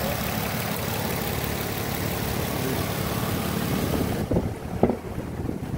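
2007 Nissan Altima's 3.5-litre V6 idling steadily with a hiss, heard up close in the open engine bay. After about four seconds the hiss drops away abruptly and a couple of short knocks follow.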